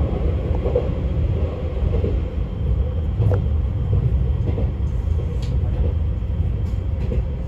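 Izukyu 2100 series electric train heard from inside the car while running: a steady low rumble of wheels on rail, with a faint steady tone and a couple of short clicks.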